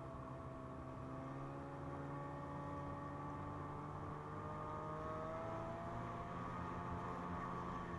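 Ski-Doo MXZ 600 Carb snowmobile's two-stroke twin engine running steadily under way, its pitch rising gradually partway through.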